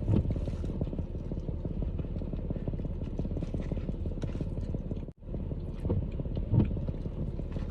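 Steady low rumble of a vehicle engine heard from inside a car, with a single louder thump about six and a half seconds in. The sound drops out for an instant about five seconds in.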